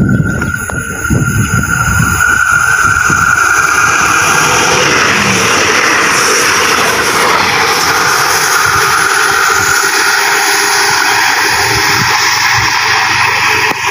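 Daewoo diesel railcar express train passing close by at speed: engine rumble and loud, steady wheel-on-rail noise, with a steady high tone in the first few seconds.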